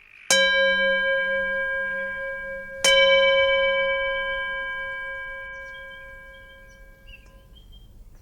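A meditation bell struck twice, about two and a half seconds apart, each strike ringing on in a long, clear tone that slowly dies away. It marks the close of a meditation practice.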